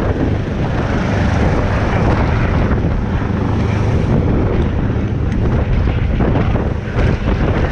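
Helicopter running steadily, a constant low hum under heavy wind buffeting the microphone.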